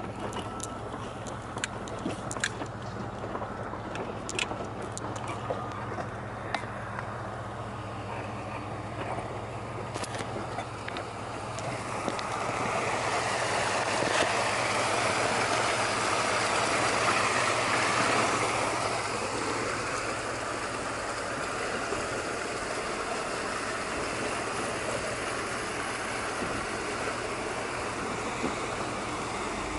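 Vehicle engine running at low speed on a rocky dirt track, with scattered knocks and rattles in the first several seconds. About twelve seconds in, the rush of a fast-flowing creek rises over it, loudest for a few seconds, then settles to a steady water noise under the engine.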